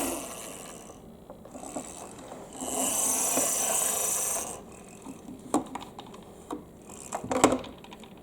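Balls rolling and rattling down a HABA wavy-slope marble run: a steady rushing rumble for about two seconds, then a run of sharp clacks as balls knock against the track near the end.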